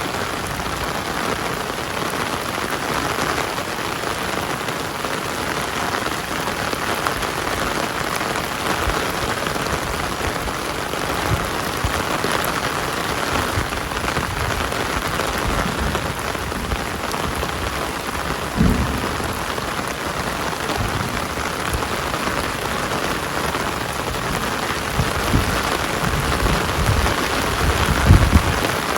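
Heavy rain falling steadily, a dense even hiss of drops. A few brief low rumbles rise through it about two-thirds of the way in and again near the end, the last one the loudest.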